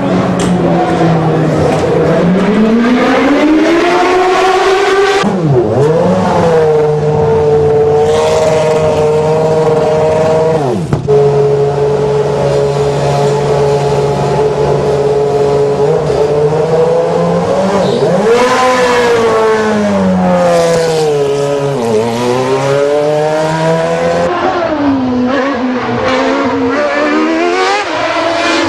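Minardi M193B Formula 1 car's V8 engine running hard on track. Its pitch climbs and drops through gear changes, with long stretches held at steady high revs and sharp falls several times.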